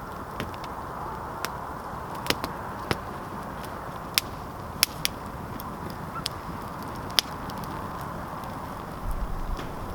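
Campfire of burning wood crackling, with sharp, irregular pops over a steady hiss of the flames. A short low rumble comes near the end.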